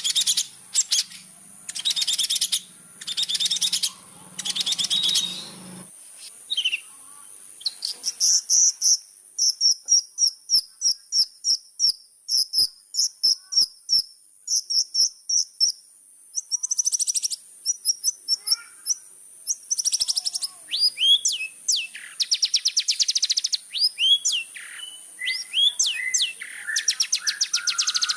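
Long-tailed shrike (cendet) in full song: harsh buzzy bursts, then a fast run of short repeated chips, then varied sliding warbled phrases. A steady high-pitched insect-like drone runs behind it.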